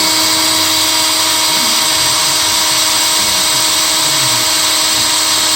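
Power drill running at a steady, high speed, drilling into a seized EGR bolt to get it out.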